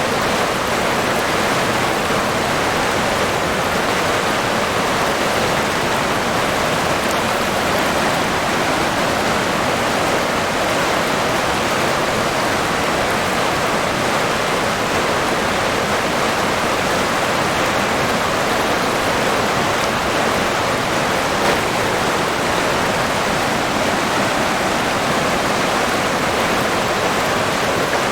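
River water rushing and splashing in a steady, unbroken wash of sound.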